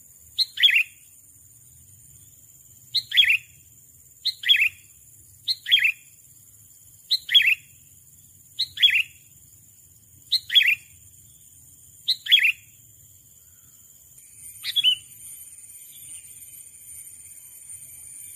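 Sooty-headed bulbul giving a short, sharp call over and over, nine times, about every one to two seconds; the last call, near the end, is followed by a faint steady whistle.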